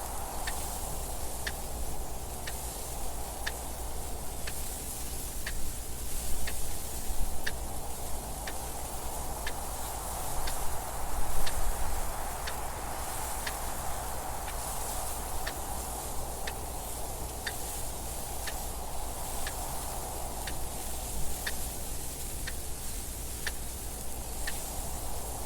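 Clock ticking steadily, about two ticks a second, over steady wind noise that swells twice in gusts partway through.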